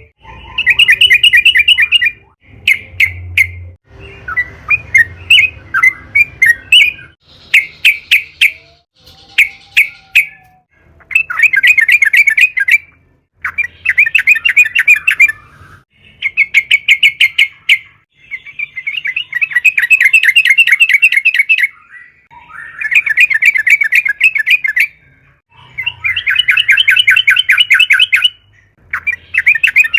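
Yellow-vented bulbul singing: about a dozen loud bursts of fast, repeated chattering notes, each one to three seconds long, with short pauses between.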